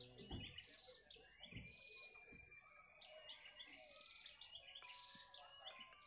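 Faint bird calls: several birds chirping in short, repeated high phrases, some sliding in pitch. Two low thumps come in the first two seconds.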